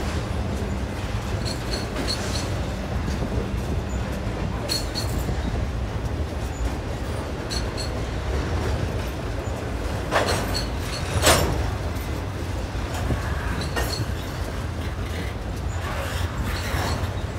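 BNSF intermodal freight train's trailer-laden flatcars rolling past: a steady rumble of steel wheels on rail, broken by scattered clicks and clanks, with two louder bangs about ten and eleven seconds in.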